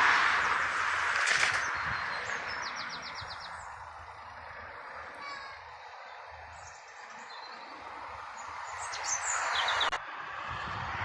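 Small birds chirping in quick short trills over a broad rushing noise. The rushing is loudest at the start, fades away through the middle and swells again near the end.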